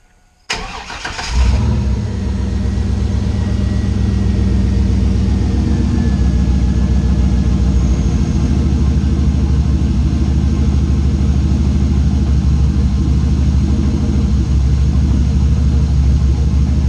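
Turbocharged GM LS V8 in a Chevrolet truck cranked by the starter for about a second, then catching and settling into a steady idle, its first start after the turbo build.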